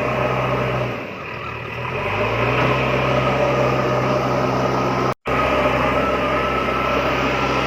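A small motor running steadily with an even hum. It slows about a second in and speeds back up, then drops out for an instant about five seconds in.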